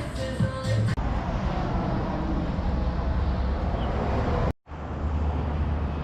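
Music stops about a second in, giving way to a steady low rumble with noise, like a running vehicle. The sound drops out briefly about four and a half seconds in, then the steady low hum carries on.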